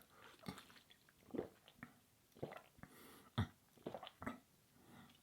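A person drinking water, swallowing in a series of quiet gulps, the strongest about three and a half seconds in.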